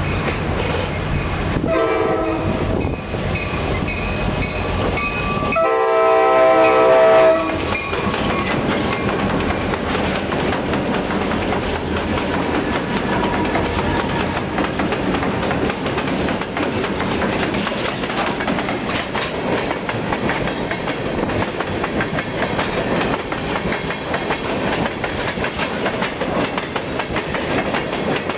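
Diesel freight locomotive air horn sounding two blasts, the second longer and louder, as the train approaches a road crossing. After the horn, the train of EMD diesel locomotives and cars rolls past with a steady running noise.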